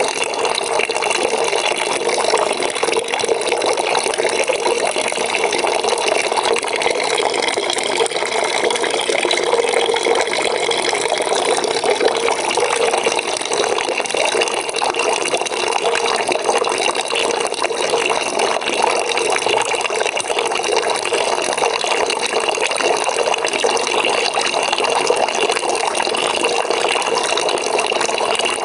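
Water pouring into a bucket as it fills, a steady, unbroken splashing stream.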